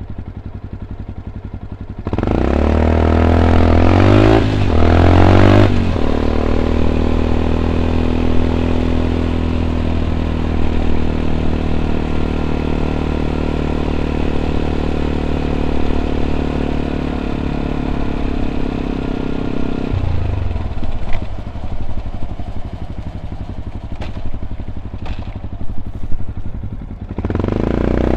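Yamaha WR 125 X single-cylinder four-stroke engine through an Arrow exhaust with dB killer, heard while riding. It pulls away about two seconds in, rising in pitch with two brief dips as it shifts up, holds a steady note while cruising, then falls back and runs lower with a few sharp clicks before accelerating again near the end.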